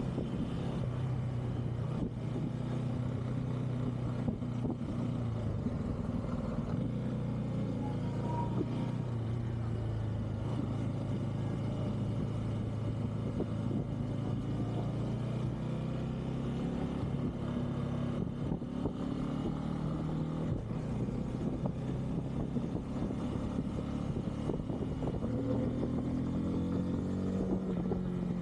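Bajaj Pulsar N250's single-cylinder engine running steadily while the motorcycle is ridden, its note rising near the end as it accelerates.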